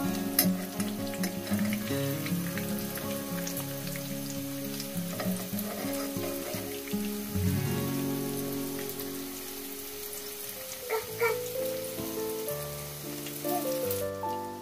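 Breaded potato slices shallow-frying in hot oil in a pan, a steady fine crackling sizzle, with a couple of sharper clicks about eleven seconds in. Soft background music plays under it.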